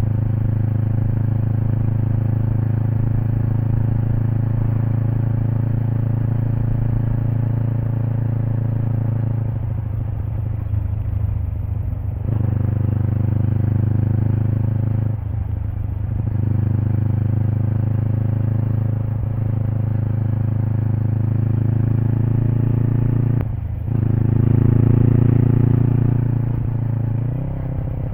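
Kawasaki Eliminator SE's parallel-twin engine running through an aftermarket BEAMS header and muffler while riding at a steady pace. The throttle is briefly rolled off a few times, about ten, fifteen and twenty-three seconds in, as for gear changes, and the engine pulls louder just after the last of these.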